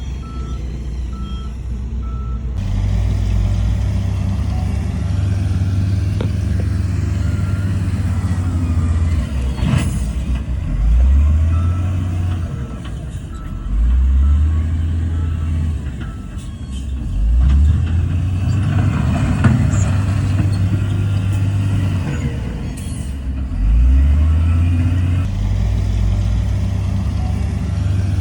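Heavy diesel earthmoving machinery working, its engines revving up several times under load. A reversing alarm beeps in short repeated pulses near the start and again briefly later on.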